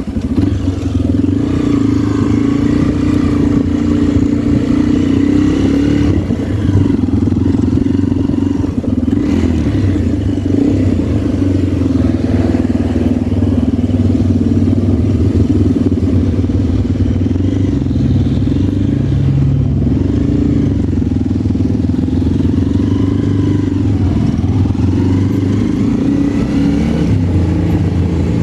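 Motorcycle engine running while riding, a steady drone whose pitch rises and falls now and then as the bike speeds up and slows.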